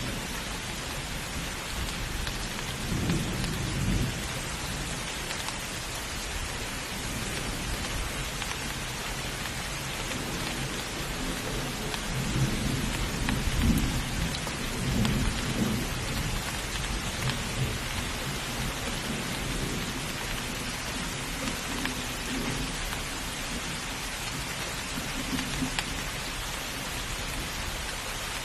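Thunderstorm: steady rain with rolls of low thunder, one about three seconds in, a longer rumbling stretch around the middle, and a softer one near the end.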